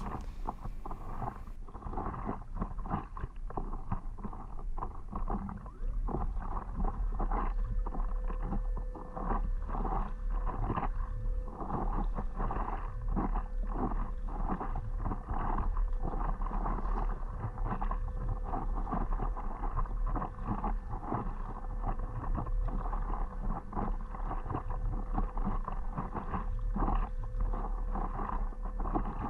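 Water sloshing and splashing against a stand-up paddleboard and paddle, with a steady low wind rumble on the microphone. A faint steady hum comes in about seven seconds in.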